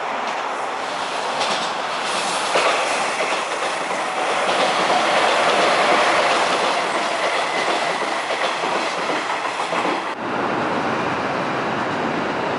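Hanshin Railway electric train passing close below, its wheels clacking over the rail joints and points, building up and loudest in the middle. About ten seconds in the sound changes abruptly to the steadier running noise of a JR train on an elevated track.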